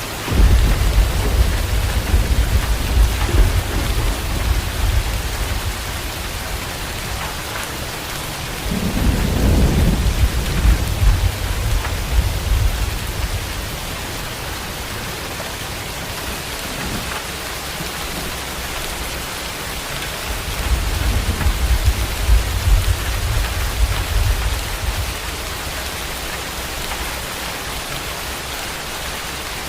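Steady rain falling, with three long low rumbles of thunder: one right at the start, one about nine seconds in, and one about twenty seconds in.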